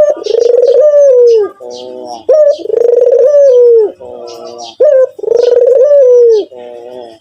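White ringneck dove (puter putih) cooing over and over: three long, drawn-out coos, each opened by a short rising note, with quieter rolling notes between them.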